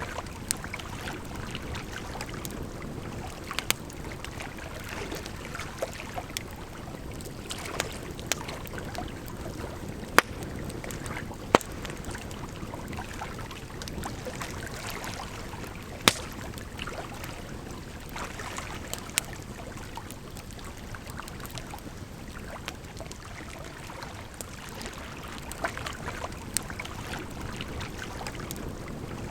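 Wood fire crackling with irregular sharp pops, a few of them much louder, over a steady rush of flowing water.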